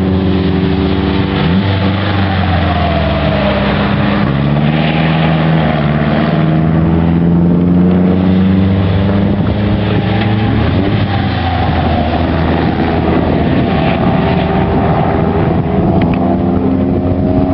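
Several pre-war racing car engines running hard on a circuit, overlapping, their pitches sliding down and up as cars pass and shift.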